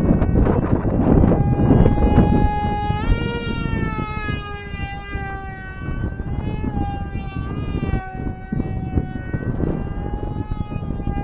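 Small brushless electric motor and propeller of a foam RC flying wing whining in flight. Its pitch steps up about three seconds in, then wavers up and down with throttle and gusts. Wind rumbles on the microphone underneath.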